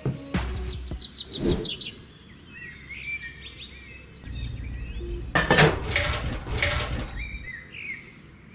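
Birds chirping and trilling, with a loud burst of rustling, scraping noise about five and a half seconds in over a low hum.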